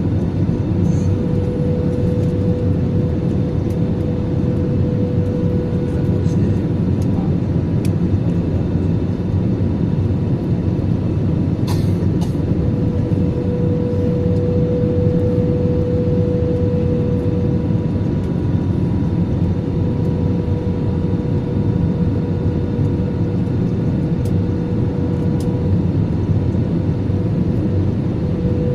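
Steady cabin noise inside an Airbus A320-200 airliner: a dense, even rumble of engine and air noise with a steady whine running through it. A few faint clicks come through, one about twelve seconds in.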